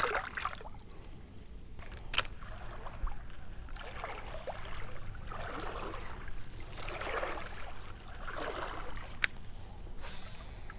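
Water swishing and sloshing around a small boat in a few slow strokes, with several sharp clicks. A steady high insect drone, crickets, runs underneath.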